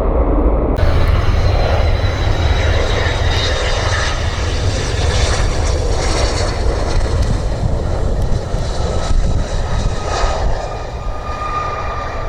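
Jet airliner passing close by, its engines making a steady loud rush with a high whine over it.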